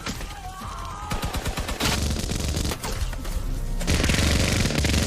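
Rapid machine-gun fire, a fast run of shots, over background music; it picks up after about a second and grows louder near the end.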